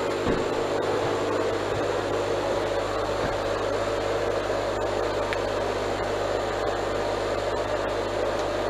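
Exhaust fan running steadily: an even rushing noise with a low hum and a steady mid-pitched drone.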